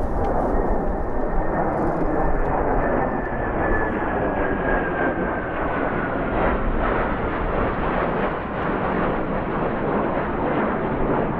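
F-16 fighter jet engine roaring as the aircraft flies past. A whine above the roar falls slowly in pitch.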